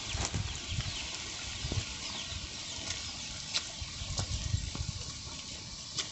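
Rain falling: a steady hiss with scattered sharp drip ticks, and irregular low rumbling thumps on the microphone.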